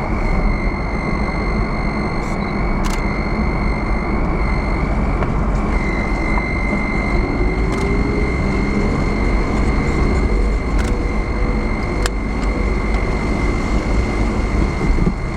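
Vehicle driving: steady road and engine noise with a steady high-pitched tone over it, the engine pitch rising slightly past the middle.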